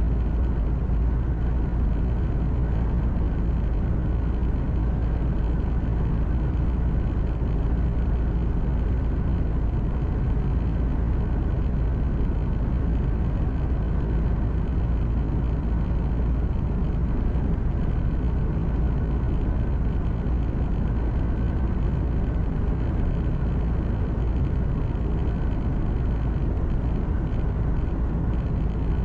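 Truck engine and tyre noise droning steadily, heard from inside the cab while driving.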